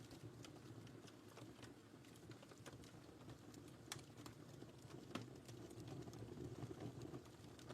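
Wood fire crackling in a fireplace: faint, irregular pops and snaps over a soft low rumble of the flames, with two sharper pops about four and five seconds in.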